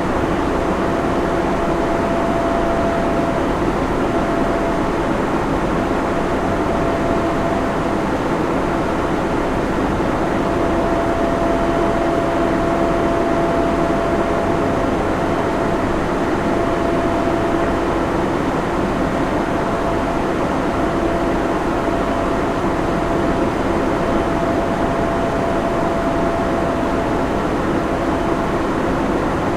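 Server room ambience: cooling fans and air handling running in a steady, even rush, with a steady whine over it that dips away for a few seconds early on.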